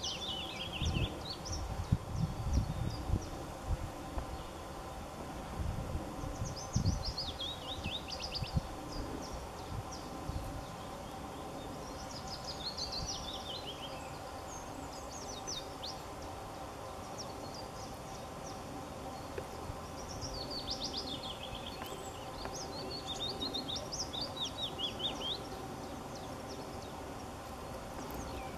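A songbird singing short, quick phrases of notes that fall in pitch, repeated every few seconds, over a faint steady background hum. Low rumbling disturbs the microphone during the first several seconds.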